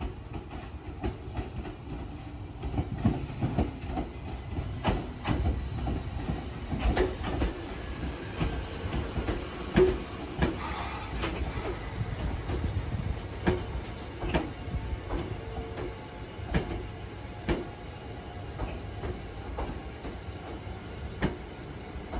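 Hakone Tozan Railway train moving along the track with a low rumble and irregular clacks from the wheels over the rail joints.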